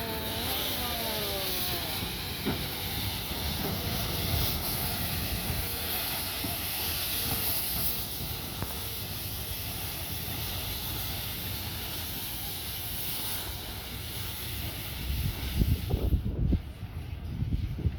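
Steam locomotive (1909 Buffaud-Robatel 031T tank engine No. 3714) letting off steam in a steady, loud hiss that stops about sixteen seconds in, after which louder low rumbling bumps take over.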